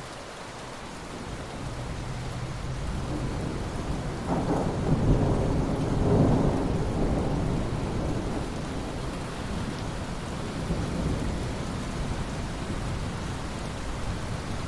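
Steady rain hissing onto ocean water, with a low rolling rumble of thunder that builds over the first few seconds, is loudest about five to seven seconds in, and slowly fades.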